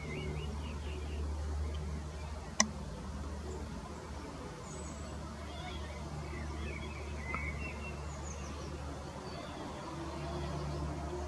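Small birds chirping here and there over a steady low rumble, with one sharp click about two and a half seconds in.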